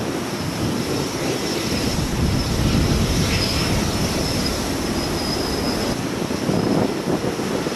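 Jet airliner engines running near an airport runway, a rumble with a steady high whine, mixed with gusty wind buffeting the microphone.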